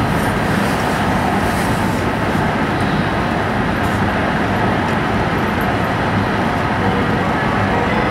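E5 series Shinkansen running at speed, heard from inside the passenger cabin as a steady, unbroken running noise.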